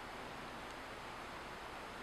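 Steady rush of a flowing stream, an even wash of water noise with no clear crackle standing out.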